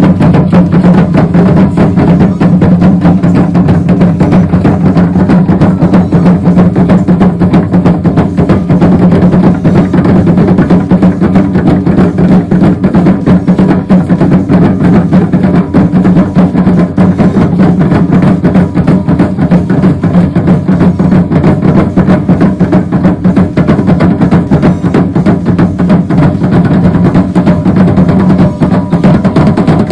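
Loud, fast drumming that continues without a break, with dense rapid strokes and a strong low body.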